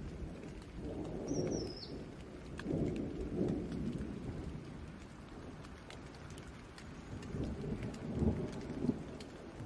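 Steady rain pattering, with thunder rumbling in low rolls about a second in, around three seconds in, and again near the end.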